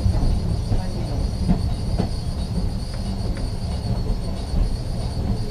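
Ex-Liverpool Corporation tram 869 running along the track: a steady low rumble of wheels and running gear, with a thin, constant high whine and a few scattered clicks over rail joints.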